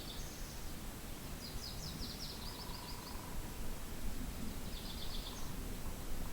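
Steady low wind rumble on the microphone, with a small songbird singing short, fast, high trills three times: at the start, for about a second and a half from around 1.5 s in, and again about 5 s in.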